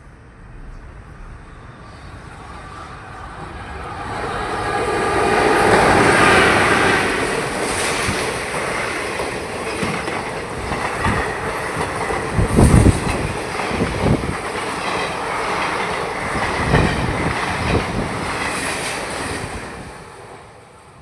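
A scheduled passenger train drawing near, going past close by and fading away. Its noise swells over the first six seconds, then heavy wheel thumps and clatter come at uneven intervals as the coaches roll past, before it dies down near the end.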